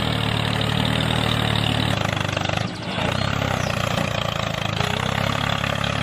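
An engine running steadily, easing off briefly near the middle before carrying on.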